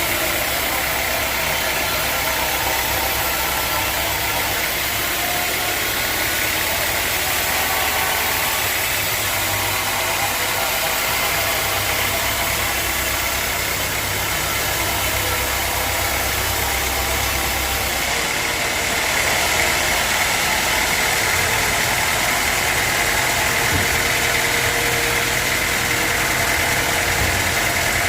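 Sawmill machinery running steadily: an engine hum with a steady high whine over it. The sound shifts slightly and gets a little louder about two-thirds of the way through.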